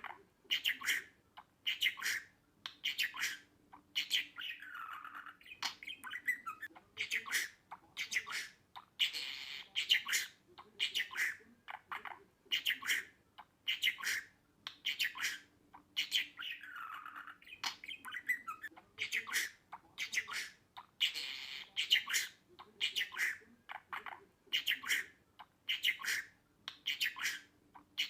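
Budgerigar chirping and chattering in a quick run of short, shrill calls with a few sweeping notes. The same stretch of calls comes round again about every 12 seconds, as a loop.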